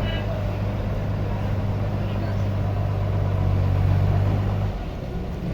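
An engine running steadily with a low hum, which stops near the end.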